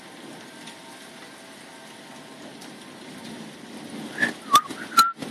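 Steady hiss of rain with a faint wash of distant street traffic under a thunderstorm. About four to five seconds in come three short, sharp clicks, each with a brief chirp.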